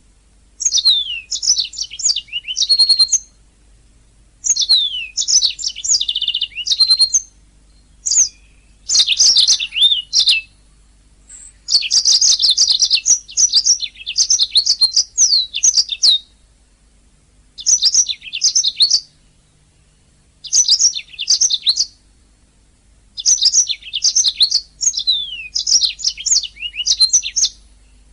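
Domestic canary singing in bursts of rapid high trills and downward-sweeping whistles. The phrases last one to four seconds, with short pauses between them.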